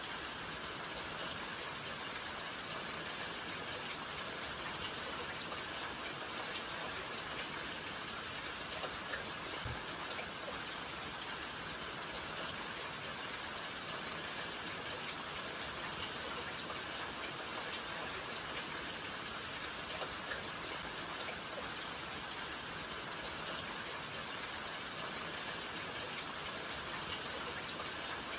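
Steady rainfall, a dense even hiss of drops with scattered individual drip ticks. About ten seconds in there is a single soft low thump.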